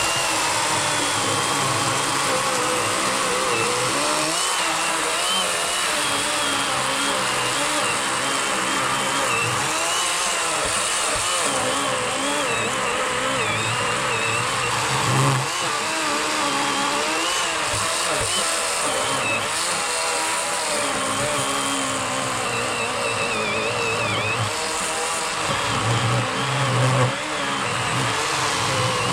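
Cordless 40-volt Worx electric chainsaw with an 18-inch Oregon bar cutting steadily through a large fallen log, its motor pitch wavering as the chain bites into the wood.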